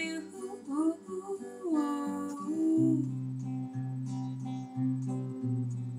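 Acoustic guitar playing an instrumental passage of a gentle song, with a low bass note plucked about once a second from about three seconds in.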